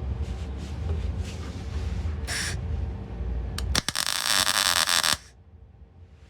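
A MIG welder laying a short tack weld on steel sill panel, a loud buzzing crackle lasting just over a second near the middle, which then cuts off. Before it there is a low background rumble.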